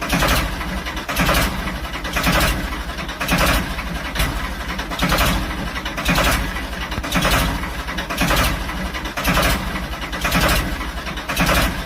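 Tractor engine running with a steady low rumble and a louder surge about once a second.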